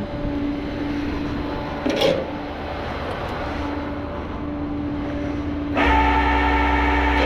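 Vehicle engine idling with a steady hum; about six seconds in a louder, deeper mechanical drone with a whine joins it.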